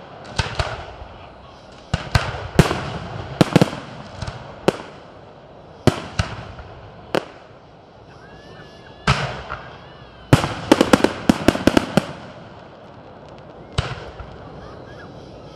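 Fireworks display: aerial shells bursting with loud, irregularly spaced bangs, each followed by a short rumble. About ten seconds in comes a rapid volley of crackling reports.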